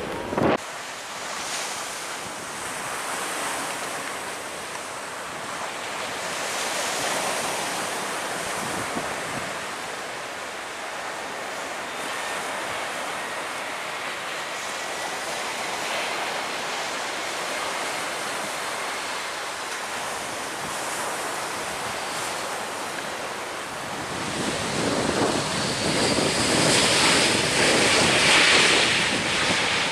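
Surf breaking on a beach with wind buffeting the microphone; a brief thump just after the start, and the rushing noise swells louder in the last few seconds.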